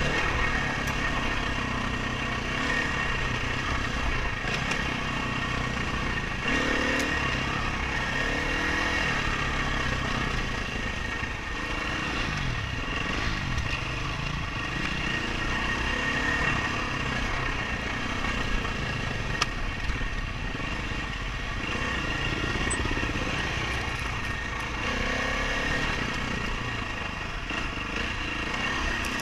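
Dirt bike engine running hard under a rider, its pitch rising and falling repeatedly with the throttle and gear changes.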